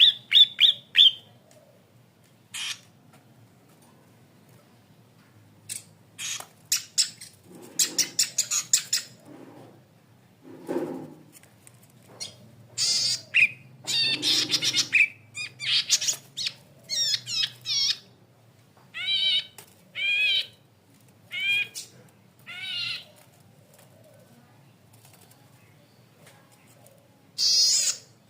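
Cici padi kepala merah (a cisticola) calling in separate bursts: rapid ticking and buzzy trills, then a run of short, wavering, repeated whistled phrases, with gaps of a second or more between bursts.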